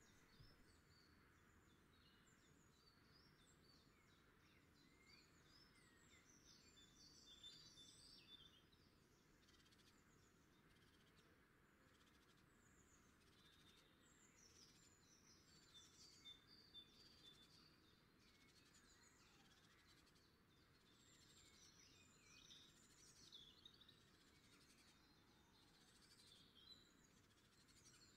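Near silence, with faint bird chirps coming and going in the background.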